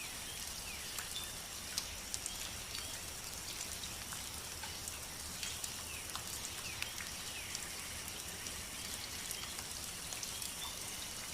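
Steady rain with many individual drops clicking sharply on a surface, over an even hiss. Faint short falling chirps come now and then.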